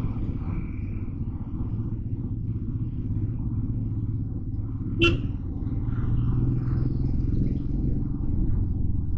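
Motorcycle on a city ride, with a steady low engine and wind rumble. A short, sharp sound cuts through briefly about five seconds in.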